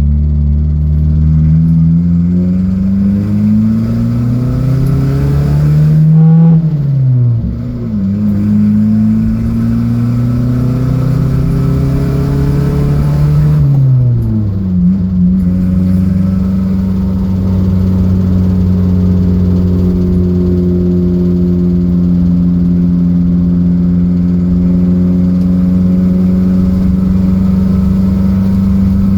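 Datsun B210's engine accelerating up through the gears: its pitch climbs, drops at an upshift about seven seconds in, climbs again, drops at another upshift around fourteen seconds, then holds one steady pitch for the rest.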